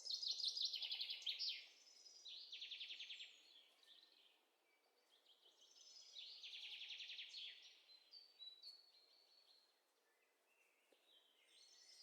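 A songbird singing faint, high trilled phrases. There are three runs of rapid notes, each one to three seconds long, with quiet pauses between them.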